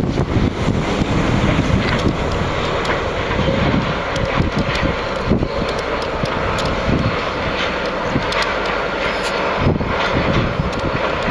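Freight train running, a steady heavy rumble with scattered metallic clicks and knocks, and wind buffeting the microphone.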